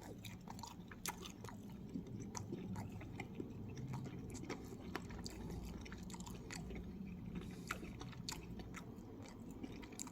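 A person biting into and chewing a crispy air-fried chicken wing close to the microphone, with many small crunching clicks and wet chewing sounds.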